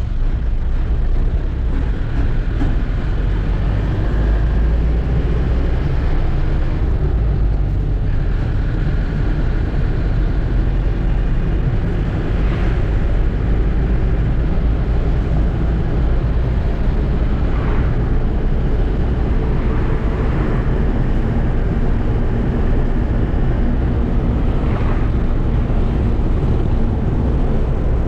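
Truck engine running with a steady, heavy low rumble while driving, with a few brief higher sounds standing out now and then.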